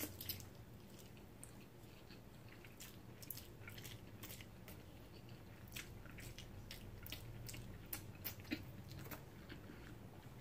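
Mouth sounds of a person chewing a big mouthful of spicy noodles: faint, scattered wet clicks and smacks.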